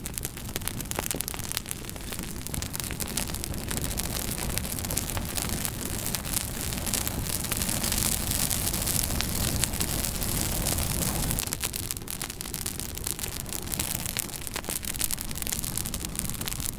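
Wood fire burning in a fireplace: a steady hiss dense with small crackles and pops, swelling a little midway.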